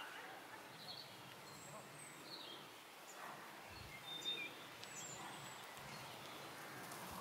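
Quiet field ambience with a few faint, short bird chirps scattered through it.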